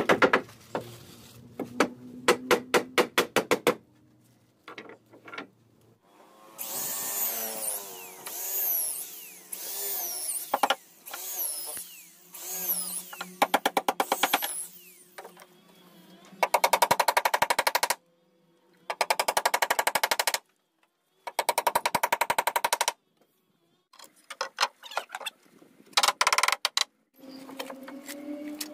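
Power tools working in short stretches, mostly a fast even rattle of many quick strokes a second, broken by abrupt cuts and silent gaps.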